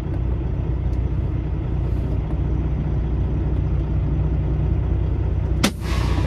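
Peterbilt semi truck's diesel engine running with a steady low rumble. Near the end a sharp click and a short burst of hiss cut in.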